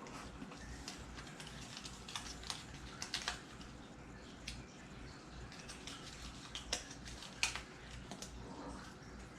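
Scattered light clicks and taps of small decorations being handled and set down, irregular, with a sharper click about seven and a half seconds in, over a low steady hum.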